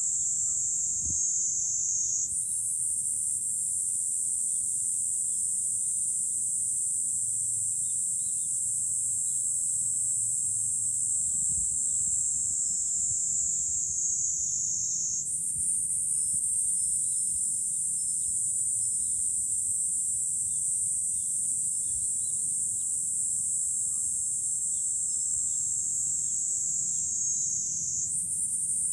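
A dense, high-pitched cicada chorus buzzing without a break; its pitch lifts abruptly three times (about two seconds in, halfway, and near the end) and sags slowly in between. A faint low rumble of wind lies beneath it.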